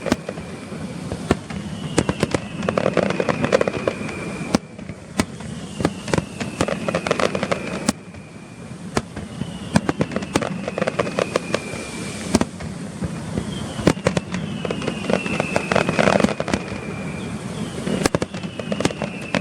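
Aerial fireworks going off: a dense run of sharp bangs and crackling reports, with a high whistle that falls slightly in pitch recurring every few seconds.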